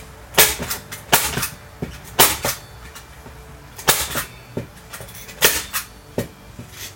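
A manual hand staple gun firing staples through a vinyl seat cover into the board: a series of sharp, loud snaps, irregularly spaced, some in quick pairs.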